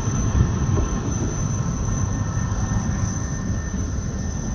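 Jet airliner engines running with a steady low rumble and a steady high-pitched whine above it.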